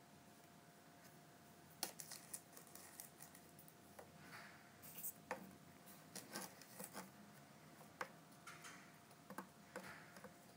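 Faint, irregular light clicks, taps and short scratchy rustles of a kitten at play. They start about two seconds in and come scattered and unevenly.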